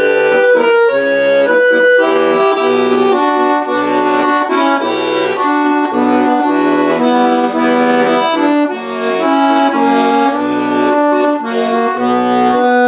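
Accordion playing an instrumental interlude between verses of a song: a melody over an alternating bass-note-and-chord accompaniment.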